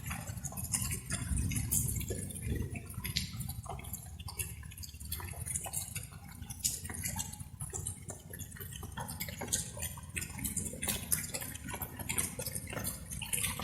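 Light rain: many irregular drops patter and drip, over a steady low rumble.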